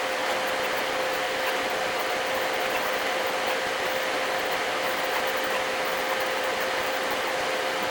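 Qidi X-Plus 3 3D printer running mid-print: steady fan noise with a constant whine held on one pitch.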